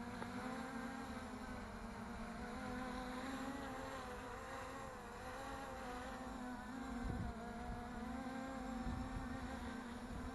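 3D-printed DJI Mavic clone quadcopter in flight, its propellers buzzing steadily with a pitch that wavers slightly, and wind bumping the microphone now and then.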